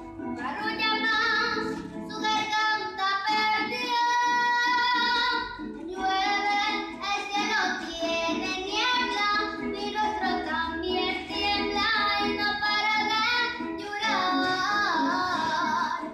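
A female voice singing a stylised llanero song with vibrato on held notes, over plucked-string accompaniment.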